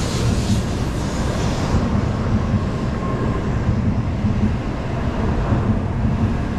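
Tokaido Shinkansen train moving along the platform, a steady low rumble with a faint hiss above it.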